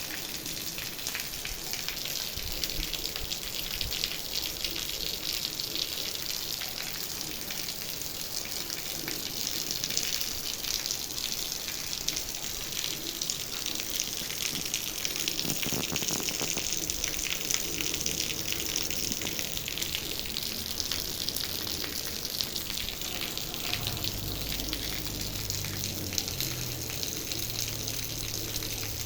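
Rain falling steadily, a dense hiss of drops. A low hum joins in the last few seconds.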